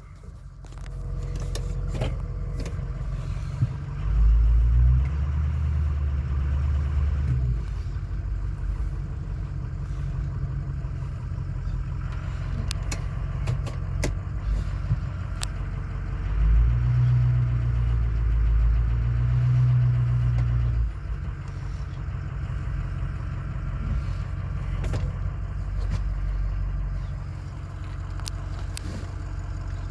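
2005 Ford F-350 Super Duty pickup's engine running at idle, raised twice for a few seconds to a higher, louder speed.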